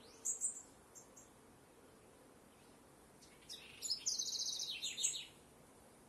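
Wild birds singing: a couple of short high chirps just after the start, then about three and a half seconds in a louder song with a fast, high trill that ends in a few falling notes, over a faint steady outdoor hiss.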